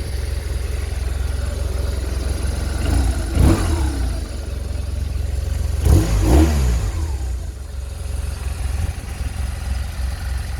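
BMW R1200RT's boxer twin engine idling, revved briefly twice, about three and a half seconds in and again about six seconds in, each time falling back to idle.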